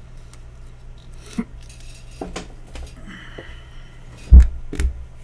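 Tools and small parts being handled on a workbench: scattered light clicks and taps, then two heavier knocks about four and a half seconds in, over a steady low electrical hum.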